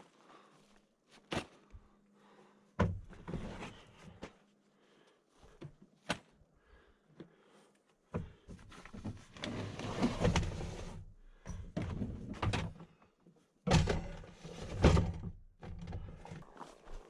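Objects being handled: a few sharp knocks, a heavy thump about three seconds in, several seconds of rustling, then two heavy thumps near the end.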